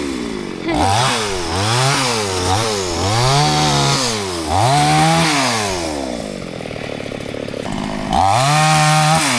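Small two-stroke chainsaw revved up and down over and over, about once a second. It drops to a lower idle for a couple of seconds, then revs again near the end.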